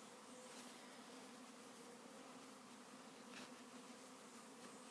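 Faint, steady buzzing hum of a honeybee swarm flying in to move into a building.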